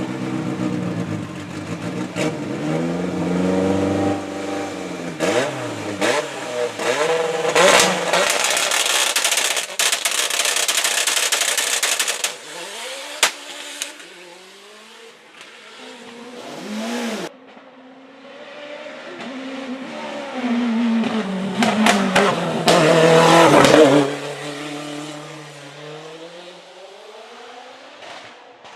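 Race car engine at full throttle on a hill climb, its pitch climbing and then dropping at each gear change. It is loudest about eight to twelve seconds in and again about twenty-two to twenty-four seconds in, then drops away abruptly.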